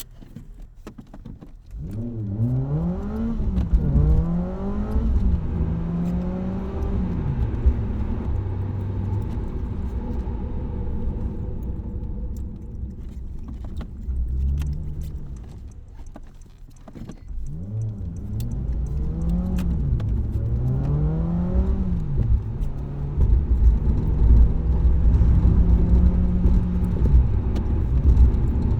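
Car engine and exhaust pulling away and accelerating hard through the gears, pitch climbing and dropping at each of about three quick upshifts, then holding a steady cruise. This happens twice, with a quieter spell of lower revs in between.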